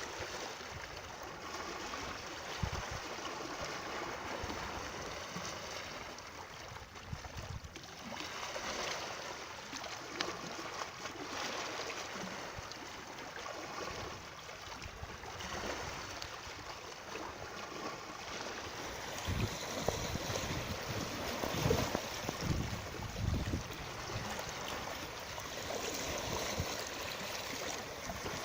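A stream running steadily with a continuous water rush. Some low thumps come in during the second half.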